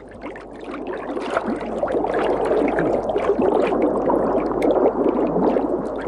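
Shallow river water running and splashing, with many small splashes; it grows louder over the first two seconds.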